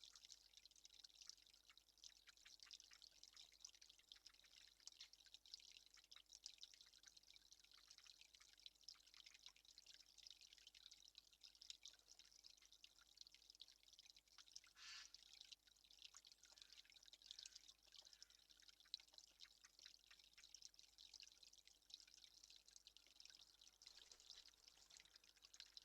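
Near silence: a faint, irregular patter of dripping water, with one brief brighter sound about fifteen seconds in.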